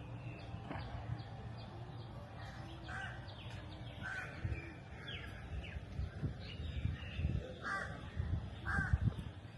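A bird giving a series of short, harsh calls, several of them spaced about a second apart, over a low steady background rumble.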